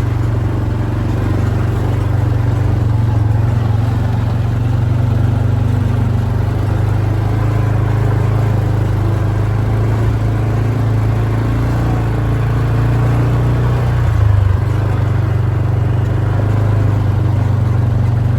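Quad bike engine running steadily with a constant low drone, with a brief jump in level about fourteen seconds in.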